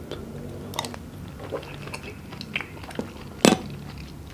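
Close-up eating sounds of a person chewing oyster with sauce: soft chewing with scattered mouth smacks and clicks, the sharpest about three and a half seconds in.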